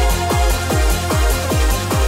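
Mid-1990s techno music: a fast, steady electronic kick-drum beat, each hit dropping sharply in pitch, under held synth tones, with no vocals.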